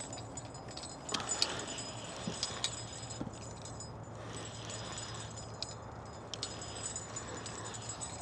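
Scattered light metallic clinks and jingles over a steady low hum and a faint, even background noise.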